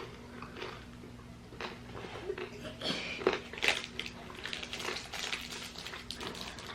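Irregular small clicks and crackles of hard lime boiled sweets with a chocolate centre being bitten and eaten, over a faint steady low hum.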